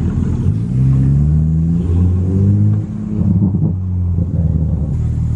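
Car engine pulling, its pitch rising for about two seconds, then dropping about halfway through and running steadily at a lower pitch.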